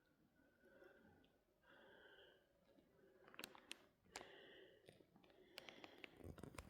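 Near silence with faint breathing, and a few soft clicks in the second half.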